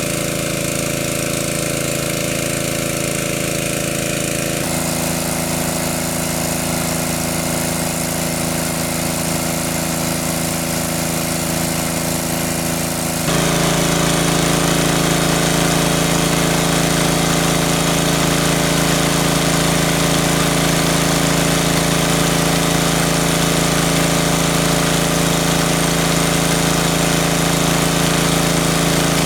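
A small engine running steadily at a constant speed. Its pitch and loudness jump abruptly about 5 seconds in and again about 13 seconds in, after which it is louder.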